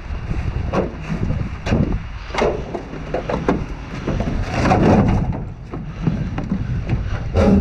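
Wind buffeting the microphone with a steady low rumble, over irregular knocks and clatter of debris being shifted and stepped on inside a dumpster.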